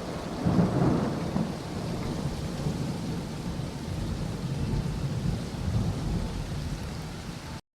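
Thunderstorm: steady rain with low rolls of thunder, swelling loudest about half a second in, then cutting off abruptly near the end.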